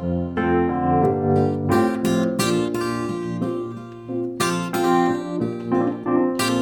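Instrumental passage of a soft ballad: acoustic guitar strumming with keyboard accompaniment, no vocals.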